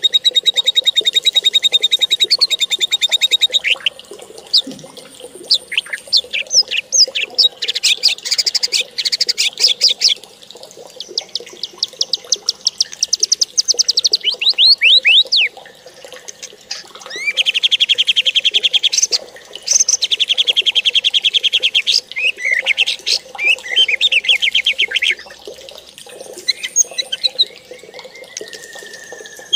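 A songbird singing a long, varied song of fast trills and rapid runs of high repeated notes, in phrases a few seconds long with short breaks between them.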